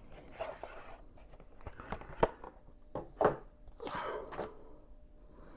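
Handling noises from fetching a floppy disk: rustling and sliding scrapes with a few sharp clicks and knocks.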